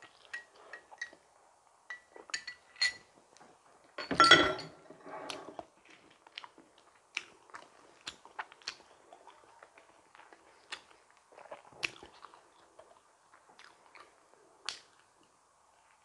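Close-miked chewing and biting of a donut: a string of short, wet mouth clicks and smacks, with one louder, sharper bite about four seconds in.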